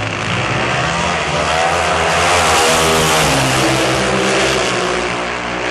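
Two Pro Stock drag-racing motorcycles at full throttle down the drag strip, their engines running hard through the pass. The sound swells to its loudest about three seconds in and eases slightly near the end.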